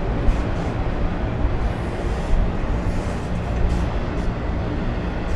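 Freight train of autorack cars rolling past close by: a steady rumble and rattle of wheels on rail, with occasional sharp clanks.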